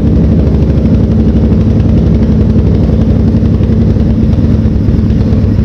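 1991 Honda XR600's single-cylinder four-stroke engine running steadily with a rapid, low pulsing exhaust note, just after starting on choke after sitting about ten years.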